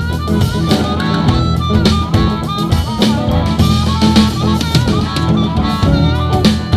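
Live blues band playing an instrumental passage with no singing: a drum kit keeps a steady beat over a bass line while a lead instrument plays a bending melody.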